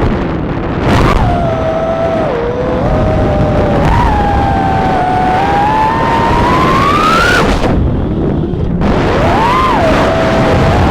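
Brushless motors and propellers of a 3-inch FPV quadcopter whining, the pitch gliding up and down with the throttle: a slow climb to a peak, a sudden cut about seven seconds in, then the whine returning with quick throttle blips. Steady rumbling wind noise lies under it.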